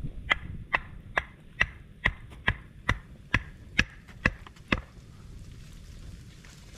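A run of about eleven sharp, evenly spaced strikes, a little over two a second, that stop about five seconds in.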